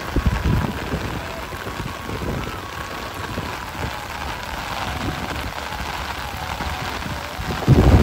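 Heavy rain pouring down onto a road and the ground around it, a steady hiss. Low rumbles on the phone microphone come just after the start and again, loudest, near the end.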